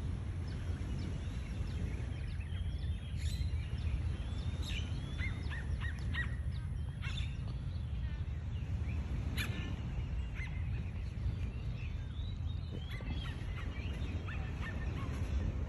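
Birds chirping in short, high calls scattered through, over a steady low rumble.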